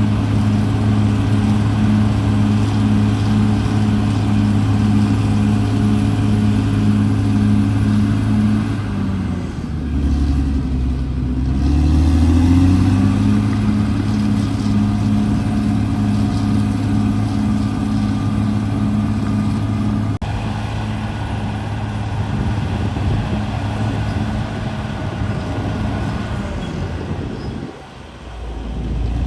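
CAT D6R XL bulldozer's diesel engine running steadily. About nine seconds in, its pitch sags for a couple of seconds and then climbs back up. The sound dips briefly near the end.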